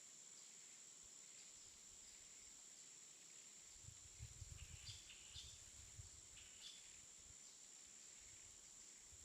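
Near silence: a faint steady high-pitched hiss, with a few soft low knocks about four to seven seconds in.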